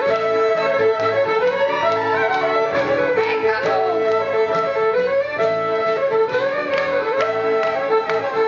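Fiddle-led barn-dance music playing a repeating tune over a steady beat.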